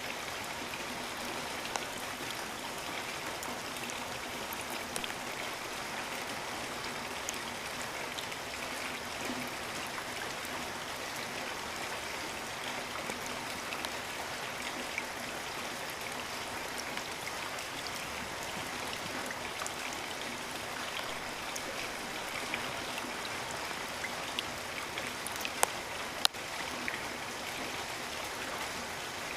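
Steady rainfall hissing evenly, with single drops ticking close by here and there. A few sharper drop hits come near the end.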